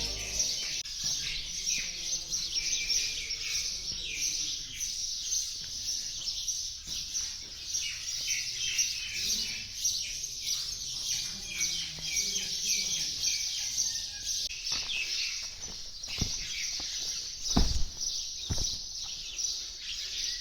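Many small birds chirping in a continuous dense chatter, with a few low thumps near the end.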